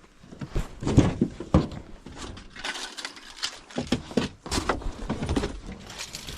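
Tools and parts being rummaged through in a truck toolbox: an irregular run of knocks and clatters with rustling between them.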